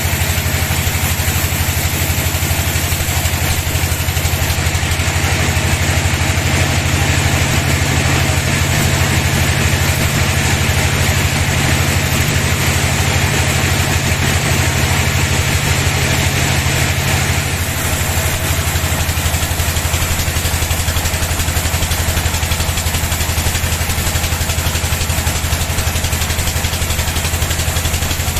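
Sawmill bandsaw machine running steadily with a low hum. A hiss grows about five seconds in and drops away about seventeen seconds in.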